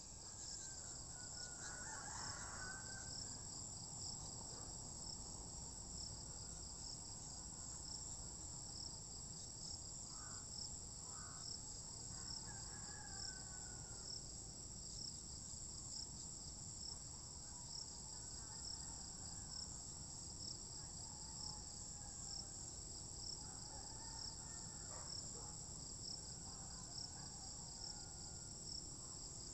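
A steady, high-pitched chorus of crickets trilling, with faint rooster crowing now and then.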